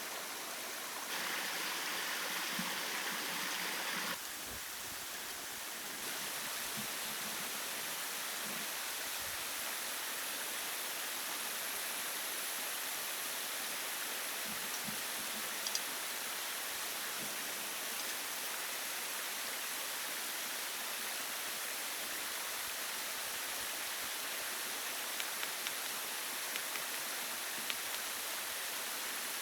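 Steady rush of running stream water, with a few faint clicks near the middle and end. Its level jumps abruptly a few times in the first six seconds.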